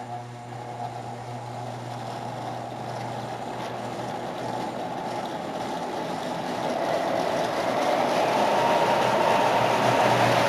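Two O-gauge model diesel locomotives pulling a long train of loaded freight cars on three-rail track: a steady electric motor hum under the rumble of wheels on the rails, growing louder from about six seconds in.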